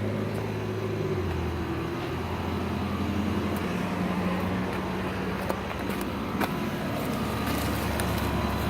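Carrier 5-ton central air conditioner condensing unit running: a steady compressor hum under the fan's even rushing noise, with a couple of faint clicks.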